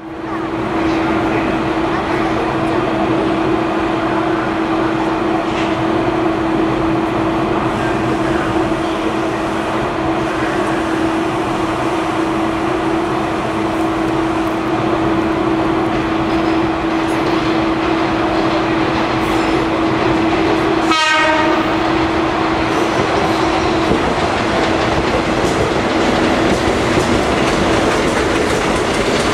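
A container freight train hauled by two EF65 PF electric locomotives approaching and passing, with the rumble and clatter of wheels over rail joints and a steady hum. A brief train horn sounds about two-thirds of the way through.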